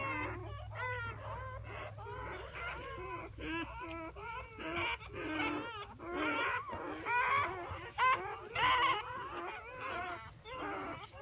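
A litter of newborn puppies whimpering and squealing, many thin, wavering high-pitched cries overlapping without a break.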